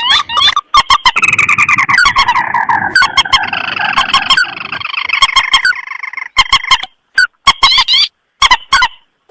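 Recorded calls of rice-field rails and crakes (mandar and tikusan) played as a bird lure. A long trill slides downward over the first few seconds, then gives way to rapid short, sharp calls separated by abrupt cut-off gaps.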